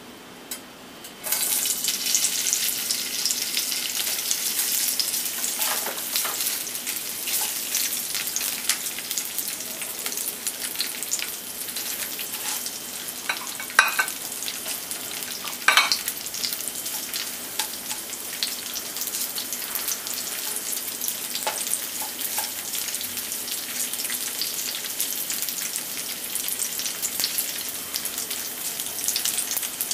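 Tofu cubes hitting hot oil in a nonstick frying pan, setting off a sudden sizzle about a second in that keeps crackling steadily as they are stirred with a spatula. A couple of sharp knocks of the spatula on the pan come near the middle.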